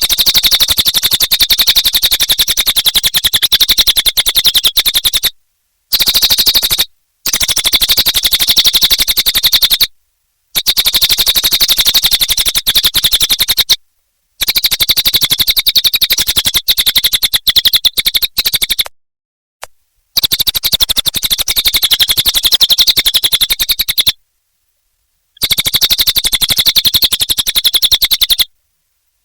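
Cililin songbird singing a loud, rapid chattering trill in bursts of several seconds, each broken off by a sudden gap.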